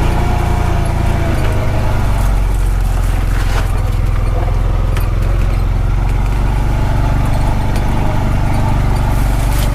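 Honda Pioneer 520 side-by-side's single-cylinder engine running steadily at low speed in locked drive, a deep drone, with a few faint clicks.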